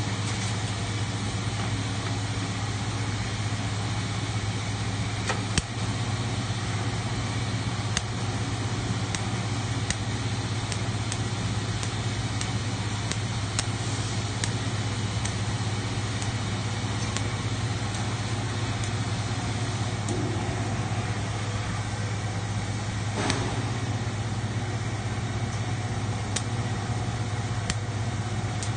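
Factory machinery running: a steady low hum under a constant noisy wash, with occasional sharp clicks.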